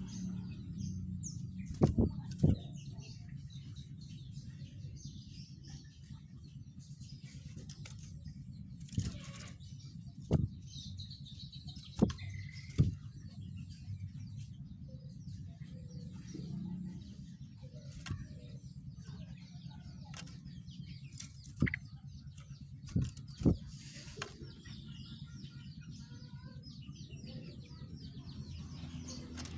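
Rengganis songbird giving faint scattered chirps and short trills. Sharp knocks come about eight times and are the loudest sounds. A steady low hum runs underneath.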